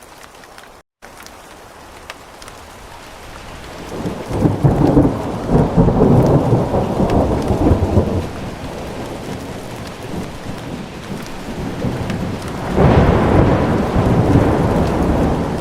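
Steady rain with thunder: a deep rumble of thunder builds a few seconds in and fades, and a second peal breaks in suddenly near the end. The sound drops out completely for a moment about a second in.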